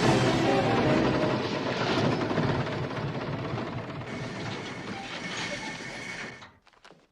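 Tractor engine clattering, fading away over several seconds and cutting out to near silence about six and a half seconds in.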